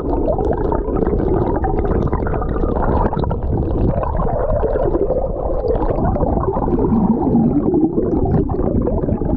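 River water heard through a GoPro held underwater: a loud, muffled, steady rushing and gurgling.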